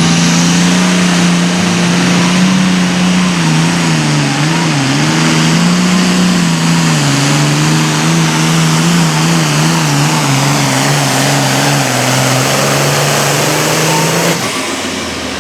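Super Farm class pulling tractor's turbocharged diesel engine running flat out through a pull, a loud steady drone whose pitch wavers for a moment a few seconds in and steps lower a couple of times. The engine sound drops off sharply near the end as the pull finishes.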